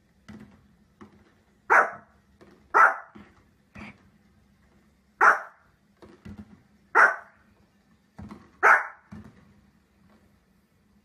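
A dog barking: five loud single barks a second or two apart, with quieter, shorter sounds between them.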